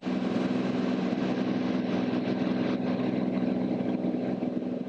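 Cirrus SR22T's turbocharged six-cylinder engine and propeller droning steadily in flight, heard inside the cabin.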